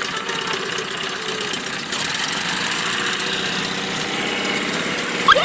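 Small boat's engine running steadily at low speed.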